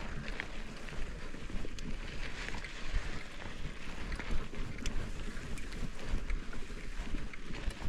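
Wind buffeting the microphone over mountain bike tyres rolling on a dry dirt trail, with scattered small clicks and crunches from the gravel and the bike.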